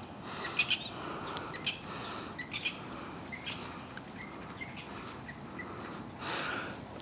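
Small birds chirping in short, scattered calls, with a brief rustle near the end.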